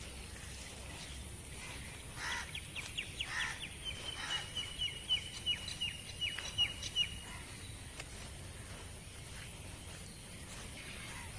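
A bird calling: a run of short, repeated high notes, several a second, from about two seconds in until about seven seconds in, over a steady outdoor background hiss with a constant high-pitched drone.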